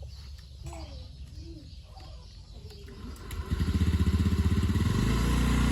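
Motorcycle engine that comes in loud about three seconds in, pulses unevenly for a second or so, then settles into a steady run. Before it there is only a low rumble.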